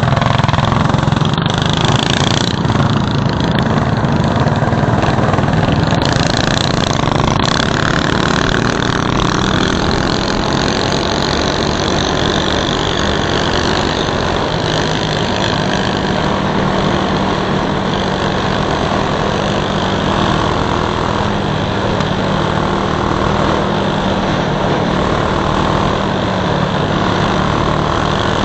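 DB30 mini bike's small single-cylinder engine running hard and steady at high speed, with a constant rushing noise over it.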